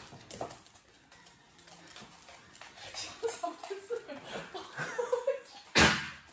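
Short, faint mews or chirps from a cat, then a single loud thump near the end.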